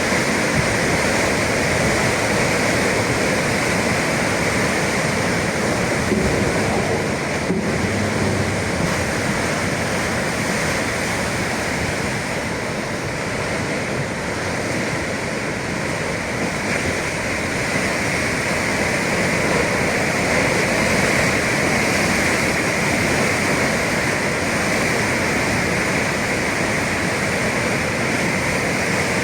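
Atlantic surf breaking and washing against the shore in a steady, continuous rush of water.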